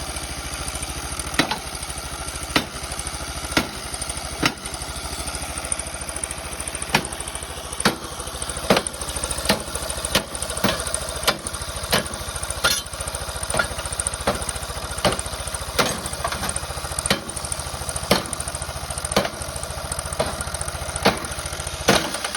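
Gunshot-damaged lawn mower engine running roughly, with a sharp knock about once a second that comes faster, about twice a second, from around eight seconds in. The owners take the knock for a bent connecting rod.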